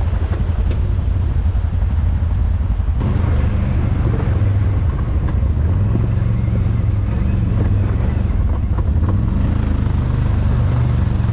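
ATV engine running steadily, a low hum that wavers slightly in pitch.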